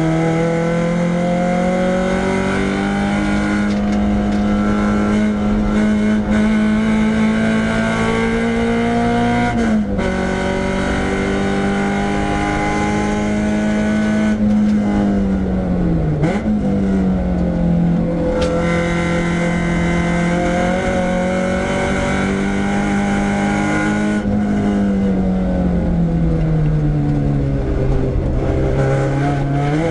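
Renault Clio 172's 2.0-litre four-cylinder engine driven hard on a race track, revs climbing through the gears with a sharp drop at an upshift about ten seconds in. The revs dip and climb again around halfway, then fall slowly as the car slows near the end before picking up once more.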